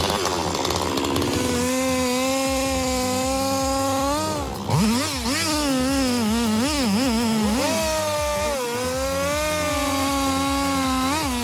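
Two-stroke chainsaw engine running at high revs with a steady whine. For a few seconds in the middle its pitch repeatedly dips and recovers, then it holds steady again.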